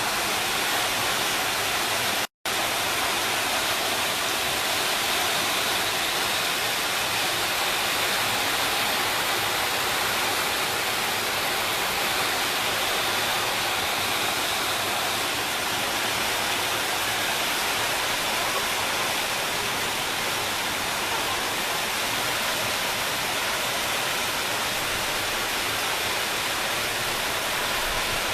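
Heavy rain pouring down in a steady, even rush. The sound cuts out for an instant about two seconds in.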